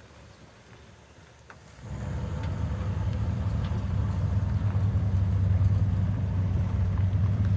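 A car engine running nearby: low and steady, it comes up sharply about two seconds in and stays loud.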